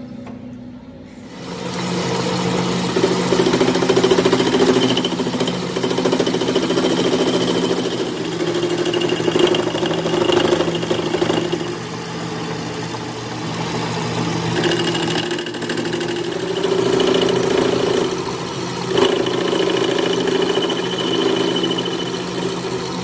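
Metal-turning lathe starting up about a second and a half in and running steadily, with a high whine that comes and goes several times.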